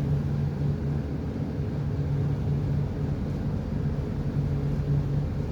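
A ship's engine running steadily, a continuous low drone.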